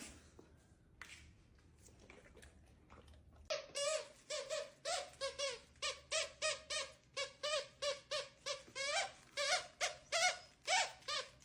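A dog whining in a rapid run of short, high-pitched yelps, about two to three a second, starting a few seconds in and keeping on.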